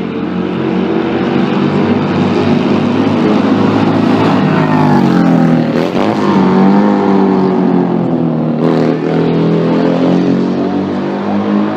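A racing car's engine accelerating hard as it passes, getting louder over the first few seconds. Its pitch climbs, drops sharply about six seconds in and again near nine, then climbs again.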